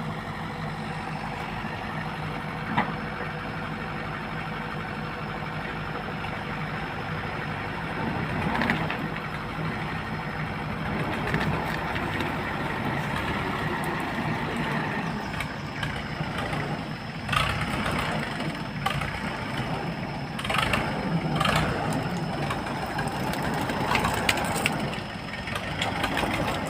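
Engine idling steadily, with scattered short knocks and clatters in the second half.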